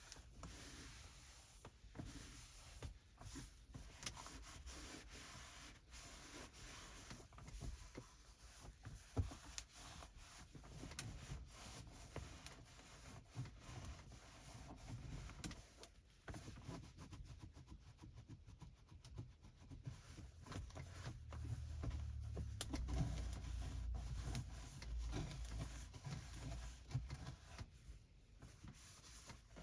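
Microfiber cloth rubbing and wiping over hard car-interior surfaces, with frequent small taps and scrapes. A low rumble swells in the second half.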